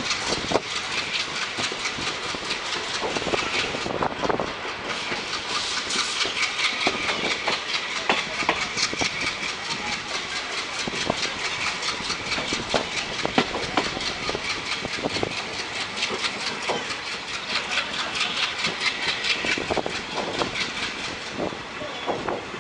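Diva–Sawantwadi passenger train running on the rails, heard from an open coach doorway: a steady rolling din with rapid, uneven clicking and clattering of the wheels over the track, and now and then a louder knock.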